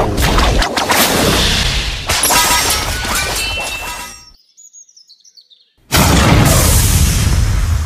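Layered cinematic sound effects: a loud rushing, crashing noise with ringing tones fades out about four seconds in. A few short, high falling chirps follow, then another loud rushing noise cuts in about six seconds in.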